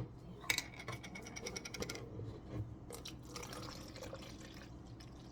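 Sweet tea being poured into a cup, filling it up, with a sharp click about half a second in and another near three seconds.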